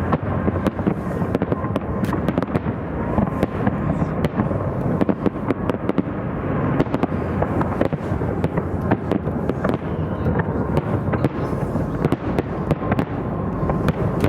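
A fireworks display heard across a river: a dense, continuous barrage of crackling and popping shells over a steady rumble of bangs, with many sharp cracks a second throughout.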